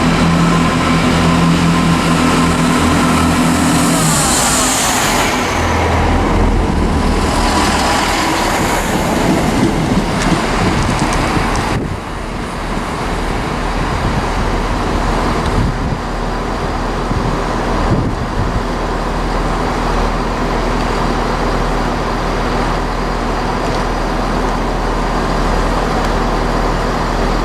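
Diesel train engine idling at a station with a steady drone that stops about four seconds in, followed by a short hiss of air. Steady station background noise follows.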